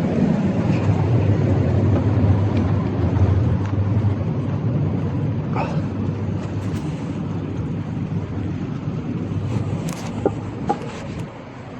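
Tyres of a Scott Scale Gravel 10 gravel bike rolling over a street: a steady low rumble, with a few sharp clicks about halfway and again near the end.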